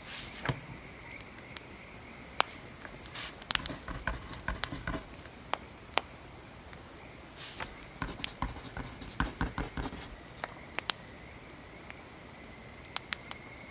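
Crackling wood fire with scattered sharp pops, mixed with two stretches of pencil writing on paper.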